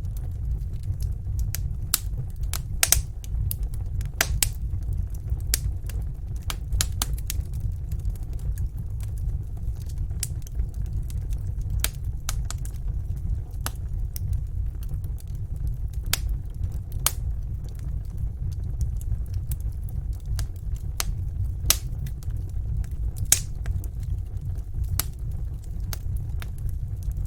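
Fireplace fire crackling, with irregular sharp pops, several a second at times, over a steady low rumble.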